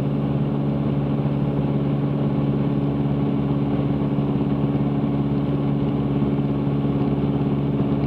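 Cessna 162 Skycatcher's four-cylinder Continental O-200 engine and propeller running at a steady cruise power in flight, a constant even drone.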